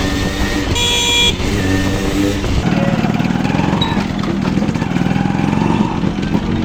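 Two-stroke Yamaha RX100 motorcycle engine running under way, with a short horn blast about a second in. Wind buffets the microphone for the first couple of seconds, after which the engine comes through more clearly.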